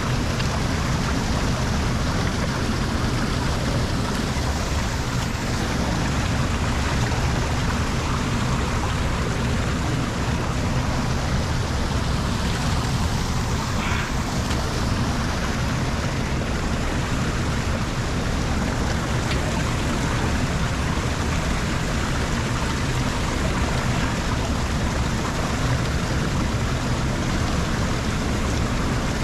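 Lake water rushing steadily through a drain grate and falling into the drain, a continuous loud splashing roar with a deep rumble underneath.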